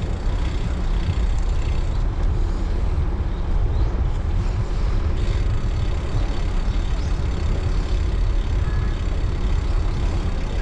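Wind rumbling on the microphone of a cyclist riding a road bike: a steady low noise with no break.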